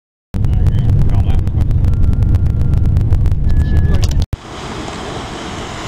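Diesel multiple-unit train passing close at speed: a loud, deep rumble of wheels and engine with rapid clicks and clatter. It cuts off abruptly about four seconds in and is followed by a quieter, steady rushing hiss.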